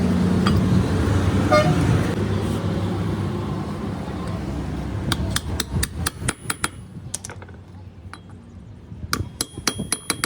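A low, steady motor or traffic rumble fades out over the first few seconds. It gives way to quick series of light metallic taps and clinks with a brief ringing after some of them, in two bursts: about halfway in and again near the end.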